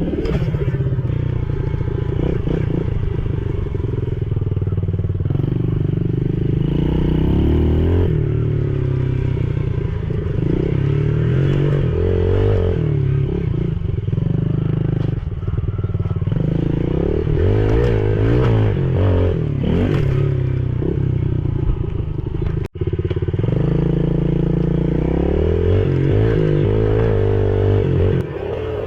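Yamaha TTR110E pit bike's small single-cylinder four-stroke engine being ridden, revving up and falling back again and again through the gears. The sound cuts out for an instant about 23 seconds in.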